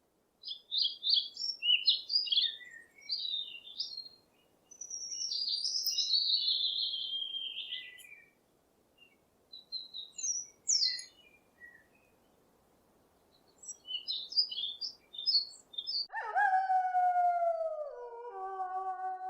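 Animal calls: bursts of high, quick chirping for most of the time, then, about 16 s in, a drawn-out pitched call that drops in pitch and breaks into a few shorter notes.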